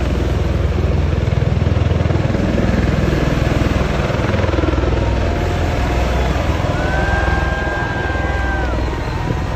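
Bell-Boeing V-22 Osprey tiltrotor in flight, its proprotors and engines making a loud, steady low rumble that eases slightly near the end. A few faint steady tones sound over it in the second half.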